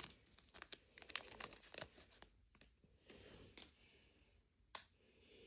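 Faint crinkling and tearing of plastic and paper wrapping as a Mini Brands capsule ball is unwrapped, with small clicks and one sharper click near the end.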